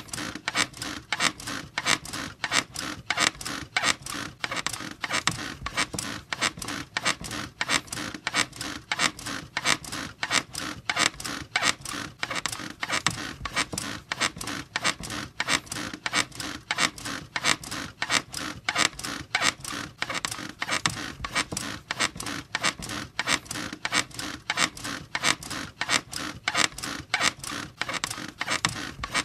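A bed squeaking over and over in a steady, even rhythm of creaks.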